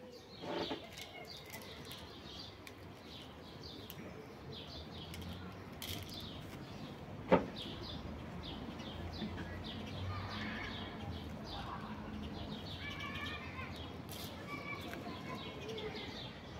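Small birds chirping and singing, with many short high chirps and some brief warbled phrases. A single sharp click stands out about seven seconds in.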